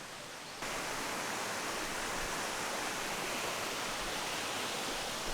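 Rushing water of a mountain valley stream, a steady even rush that cuts in suddenly about half a second in.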